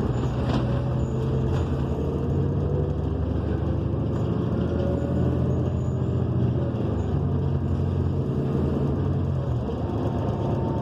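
Cummins Westport ISL G natural-gas engine of a 2014 New Flyer XN40 transit bus running under way, heard from inside the cabin along with road noise. The engine note holds steady and eases off briefly near the end.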